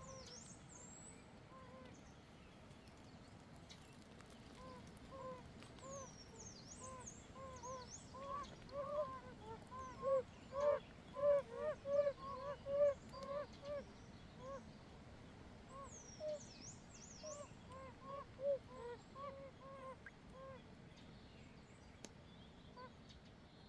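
A chorus of oriental fire-bellied toads giving their breeding calls: short, soft pitched notes repeated in overlapping runs that build to their thickest and loudest about halfway through, then thin out. Faint high chirps sound now and then above them.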